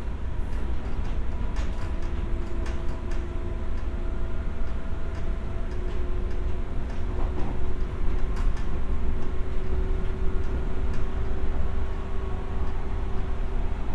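JR West 201 series electric train running: a steady rumble with a thin motor whine that rises slightly in pitch, and a scattering of sharp clicks.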